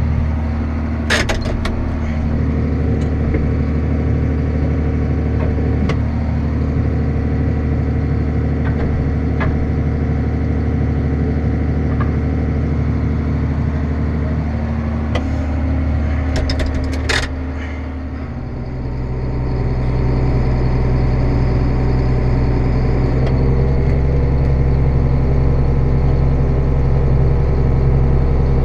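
Vehicle engine running steadily with a constant hum, with a few sharp clicks about a second in and again around two-thirds of the way through. About 18 seconds in the sound dips briefly, then settles into a different steady drone.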